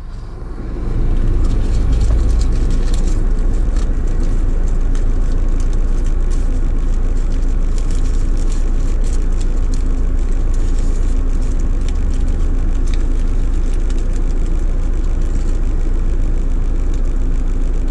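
Car engine idling, heard steadily from inside the cabin, with the crinkle of a paper food wrapper being opened.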